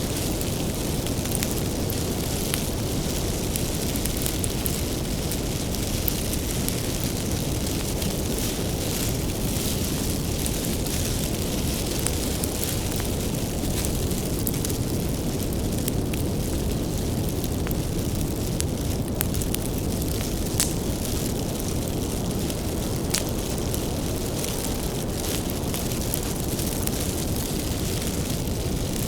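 Wood fire burning: a steady low rushing roar with scattered sharp crackles and pops from the burning firewood.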